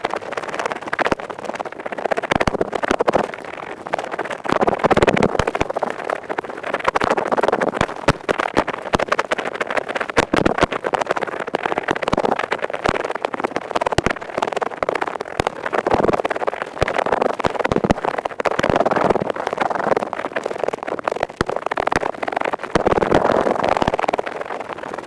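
An ear pick scratching rapidly in an ear, a dense crackling with many sharp clicks that swells and eases in uneven waves.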